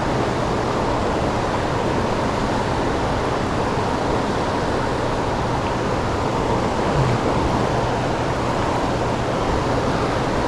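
Steady rushing of the fast, turbulent tailwater current below a hydroelectric dam, an even hiss.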